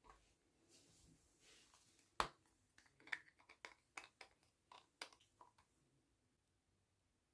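Soft rustling, then a sharp click about two seconds in, followed by a quick run of light clicks and taps that dies away after about five seconds.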